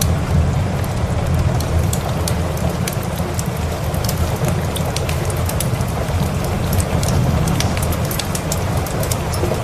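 Steady heavy rain with a low rumble underneath, and many small sharp crackles scattered through it from a wood fire.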